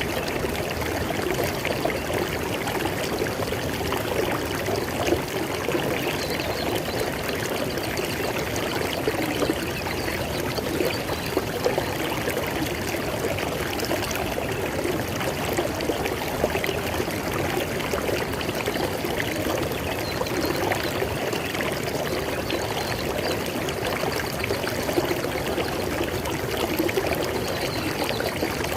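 River water flowing over rocks in a steady, splashing rush.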